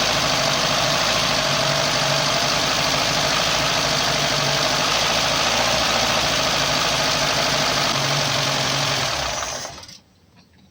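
Lada Niva 21213's 1.7-litre four-cylinder engine running steadily at about 1500 rpm, with its timing-chain damper freshly replaced and its valves just adjusted. The engine sound stops abruptly near the end.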